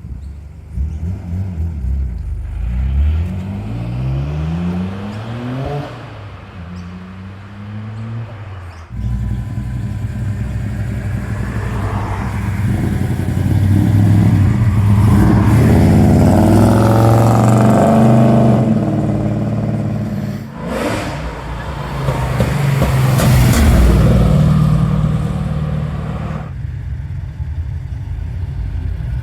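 Cars pulling away one after another with their engines revving hard, the pitch rising as they accelerate. The loudest stretch comes around the middle, with another loud burst of revs a few seconds later.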